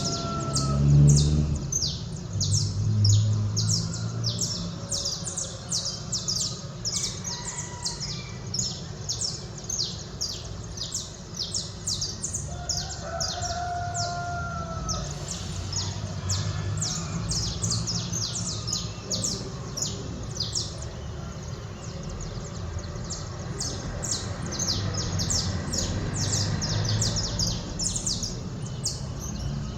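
Birds chirping rapidly and without pause in a dawn chorus, with a rooster crowing once about halfway through. A steady low rumble runs underneath.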